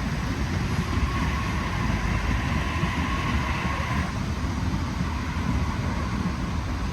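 Passenger train running through the station: a steady low rumble, with a faint higher whine that cuts off about four seconds in.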